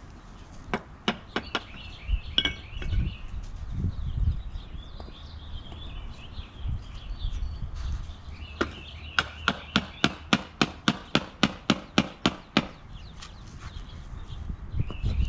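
Hard taps on concrete pavers as they are set back in place: scattered knocks and clinks, then a quick even run of about fifteen taps, four or five a second, about halfway through. Birds sing in the background.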